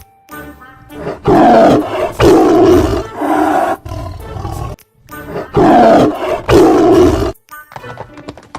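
Animal roaring sound effect from a cartoon: a run of three loud roars, then the same three roars repeated about four seconds later, over background music.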